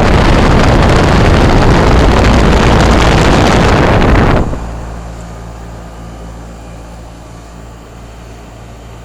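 Trane XR11 heat pump's outdoor condensing unit running with a steady low hum. For the first four and a half seconds a loud rush of air buffets the microphone, then cuts off abruptly.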